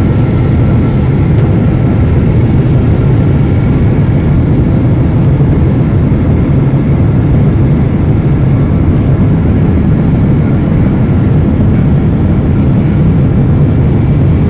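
Steady cabin noise inside a Boeing 777-200 airliner in flight on approach: an even, loud rumble of engines and airflow, strongest in the low range, with a faint high tone running through it.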